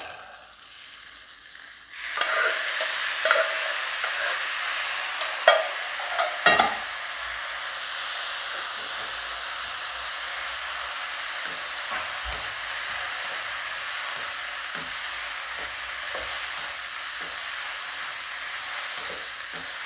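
Cooked green gram tipped into a hot non-stick pan of fried coconut masala and stirred with a wooden spatula. Steady sizzling begins about two seconds in, with a few knocks of the spatula against the pan over the next several seconds.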